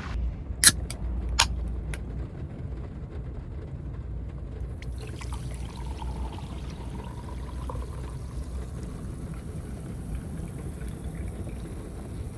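A few sharp clicks in the first two seconds, then a drink being poured into a glass, with a faint rising fill tone partway through.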